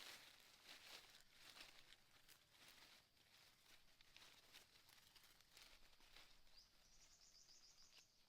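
Near silence: faint scattered rustling and crackling, with a brief, rapid high trill of short repeated notes near the end.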